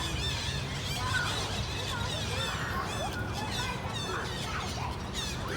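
A flock of green parrots calling together: many short, overlapping squawks and chirps, with a steady low rumble underneath.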